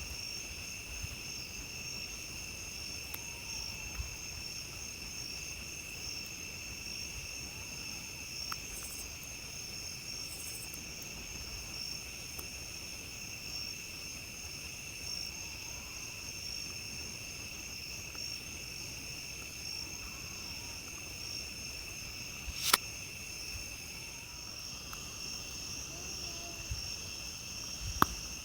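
Steady chorus of crickets and other night insects, several high tones held without a break. Small ticks and two sharp pops late on, the loudest sounds, from a crackling campfire.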